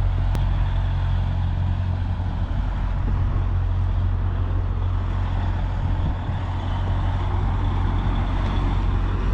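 Semi-truck diesel engine running steadily at low revs, a deep even rumble, with one sharp click about half a second in.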